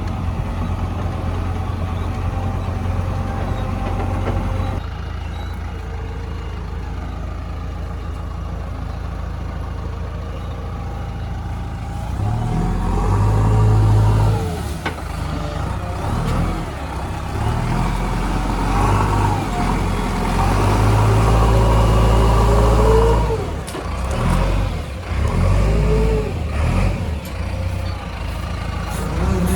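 JCB 3DX backhoe loader's diesel engine running while the machine is driven, steady at first, then louder and rising and falling in revs from about halfway through as it accelerates.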